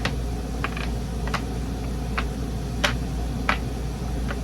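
Wooden pegs being pulled and set into a peg-jumping board game: sharp, irregular clicks and taps, about eight in all, over a steady low hum.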